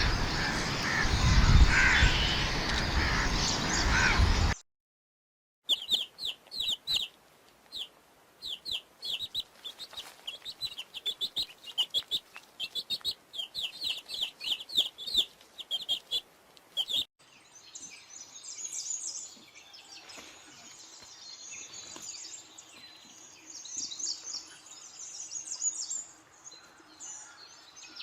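Chickens calling: after a loud, noisy opening and a sudden cut, a long run of short, high calls several a second, each sliding down, then softer scattered calls.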